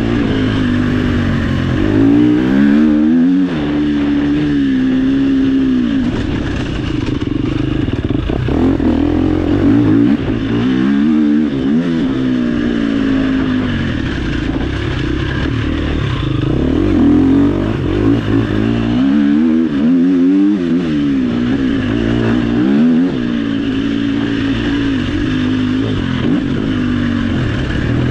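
Dirt bike engine being ridden hard off-road, its revs climbing and dropping again and again every few seconds through throttle and gear changes, with clattering from the bike over rough ground.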